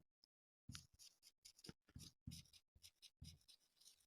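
Faint writing: about a dozen short scratching strokes of a pen or marker, with near silence between them.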